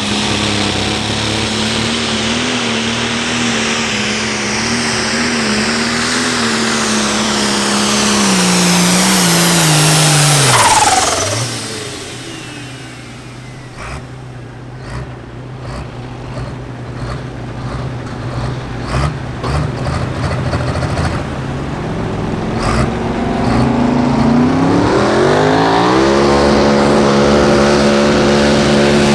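Light pro stock pulling tractor's diesel engine running hard at high revs under load, with a high whine; its pitch falls and the engine dies away as the run ends. After a quieter stretch with scattered clicks and knocks, an engine revs up and holds a steady high note.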